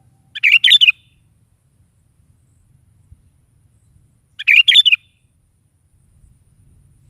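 Sooty-headed bulbul singing: two short phrases of a few quick notes each, about four seconds apart.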